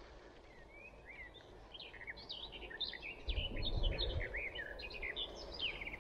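Songbirds singing: a busy run of short, high chirps and whistles. From about three seconds in, a low rumble joins underneath.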